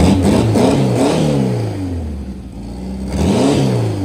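Air-cooled VW Beetle flat-four engine being revved by hand at the engine bay through a four-tip exhaust. The revs start high and fall away, then a second blip climbs about three seconds in and drops back.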